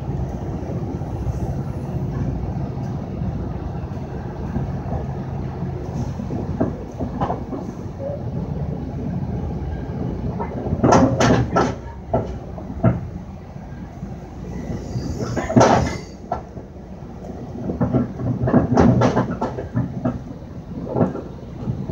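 Steady rumble of a passenger train at speed, heard from inside the coach, with a freight train running close alongside. In the second half, sharp clacks and bangs come in clusters as the wheels cross rail joints and switches.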